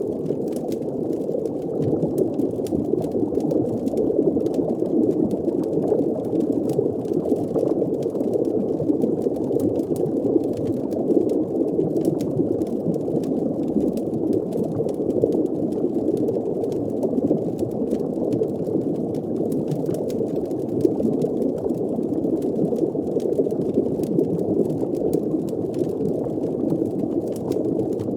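Underwater ambience: a steady, muffled low rumble with bubbling, scattered with faint crackling clicks like embers in a fire.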